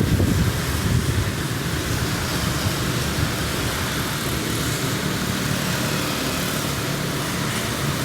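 Steady hiss of heavy rain, with wind buffeting the microphone in the first moment.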